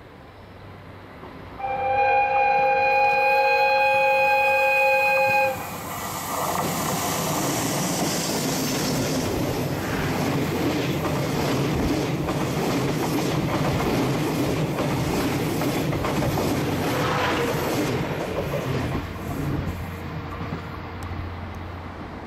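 EF65 electric locomotive sounding its horn in one long, steady blast of about four seconds as it approaches. It then runs past hauling its passenger coaches, with the rumble of the train and wheels clattering over the rail joints, fading near the end.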